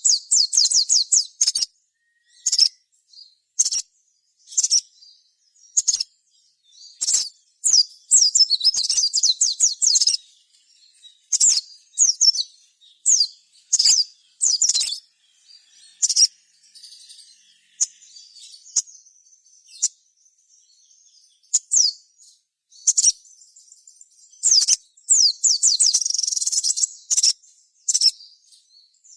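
A sogon (sogok ontong) songbird sings lively 'gacor' song: short, very high-pitched chirps and quick trilling phrases separated by brief pauses, with longer fast trills about a third of the way in and again near the end.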